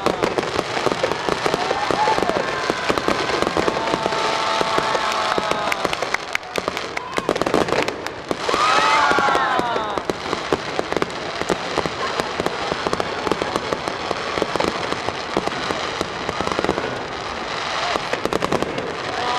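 Aerial fireworks going off densely overhead in a finale barrage: continuous rapid pops and crackling. Twice, drawn-out pitched tones rise above the crackle.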